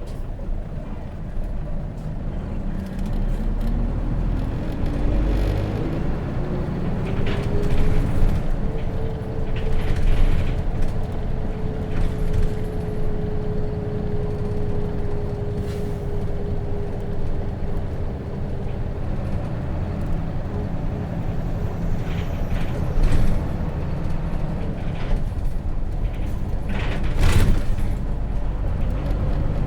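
Interior sound of a 2004 Hino RJ bus with a J08C diesel engine, driving. A whine climbs in pitch over the first several seconds as the bus accelerates, then holds steady at cruising speed, over a low engine and road rumble. A short sharp noise comes near the end.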